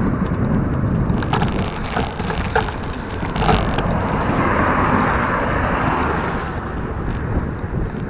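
Wind rumbling on the microphone and road noise while riding a bicycle along a city street, with a few short clicks in the first half and traffic swelling and fading past around the middle.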